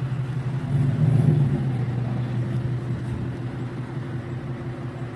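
6.6-litre Duramax V8 turbodiesel idling steadily, with a brief swell about a second in.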